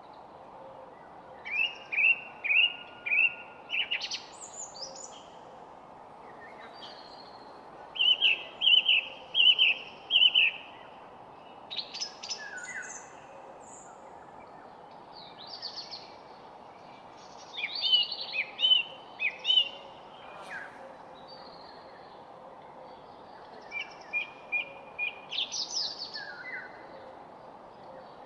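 A songbird singing phrases of several quick repeated notes, four phrases spaced a few seconds apart, over a steady low background hiss.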